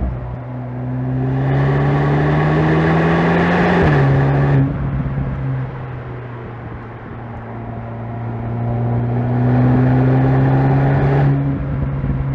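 VW Golf GTI Clubsport's turbocharged 2.0-litre four-cylinder engine and exhaust under acceleration. The revs climb for about four seconds, drop at an upshift, then ease off. Later the revs rise slowly and steadily again for several seconds before falling away near the end.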